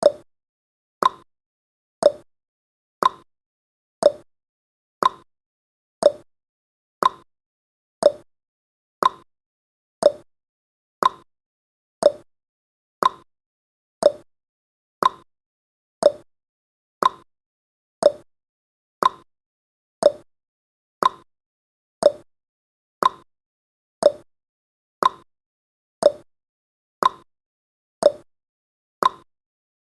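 Clock-tick sound effect of a countdown timer: one short, sharp tick each second, alternating between a lower and a higher tick like a tick-tock.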